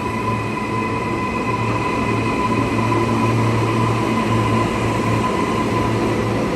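Queensland Rail electric suburban train running at a station, a steady low hum with a thin, constant high tone over it.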